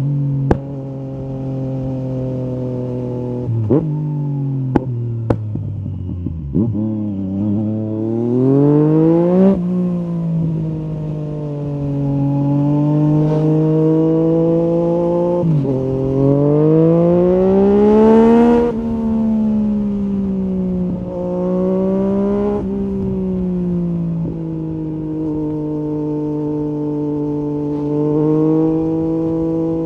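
Yamaha MT-09 SP three-cylinder engine through an Akrapovic carbon Racing-Line exhaust while riding: it holds a steady cruise, drops revs with a few sharp pops, then accelerates hard, the revs rising and dropping at upshifts about 9 and 15 seconds in, before easing off about 18 seconds in and settling back to a steady cruise.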